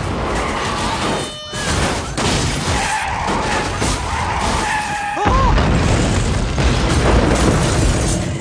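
Film sound effects of a car driven hard through an earthquake: tyres squealing as it swerves, over crashing debris and a deep rumble that swells about five seconds in.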